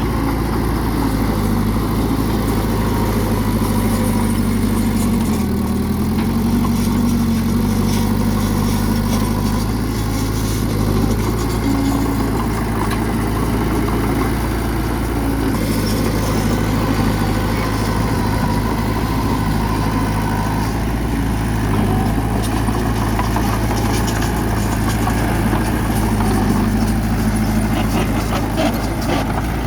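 Bulldozer's diesel engine running steadily under load, its pitch dipping briefly about five seconds in, with light metallic rattling.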